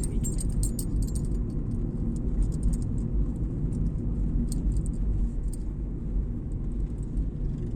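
Car on the move, heard from inside: a steady low road and engine rumble, with light rattling ticks in the first second or so and a few more midway.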